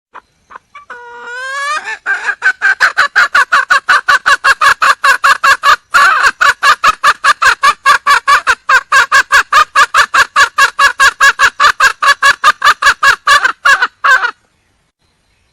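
Red junglefowl hen calling for a mate: a short rising call about a second in, then a loud, fast, even run of clucks, about four or five a second, that stops abruptly near the end.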